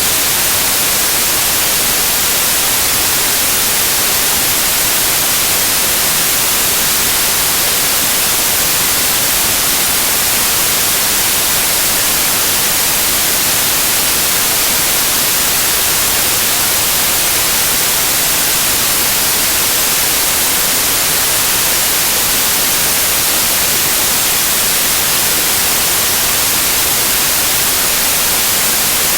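Loud, steady white noise: an even, unchanging hiss strongest in the high frequencies, with no pattern or variation.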